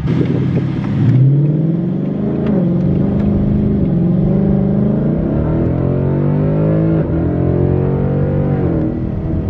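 Ford Mustang engine accelerating hard: the engine note climbs about a second in, holds, climbs again and drops sharply at a gear change about seven seconds in.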